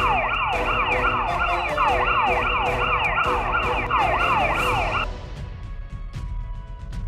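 Police siren sound effect: a fast, repeating wail whose pitch sweeps downward two to three times a second, cutting off suddenly about five seconds in. Background music with a steady drum beat runs underneath.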